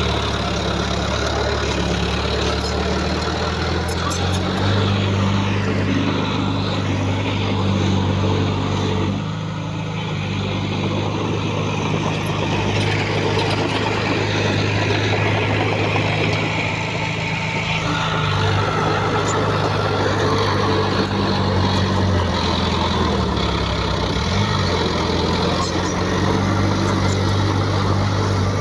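Heavy diesel engine of earthmoving machinery running steadily, its engine note stepping up and down several times as the load changes, with a brief drop in level about nine seconds in.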